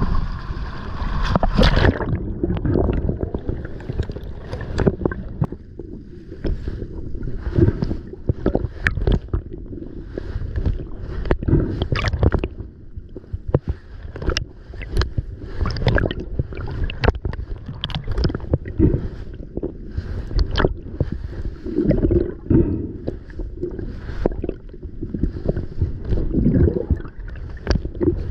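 Water moving and bubbling around a camera held by a freediver, heard as a low rumble full of irregular knocks and clicks. For the first two seconds a steady hum with even tones plays, then cuts off abruptly.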